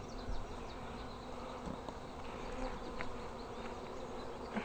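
A swarm of honey bees buzzing in a steady, even drone.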